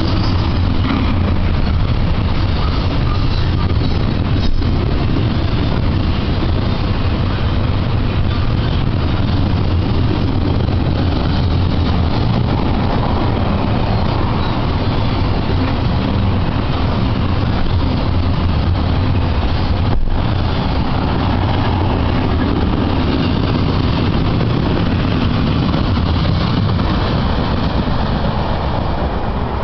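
Double-stack intermodal container train passing close by: the steady, continuous running noise of its wheels on the rails.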